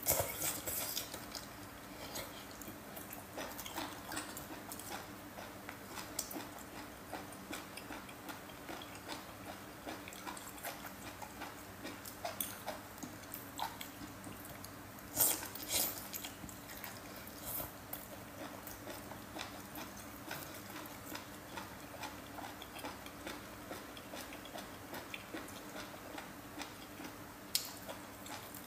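Close-miked chewing of braised octopus in chili oil: a steady run of small wet clicks and smacks from biting and chewing, with a few louder ones about halfway through and near the end.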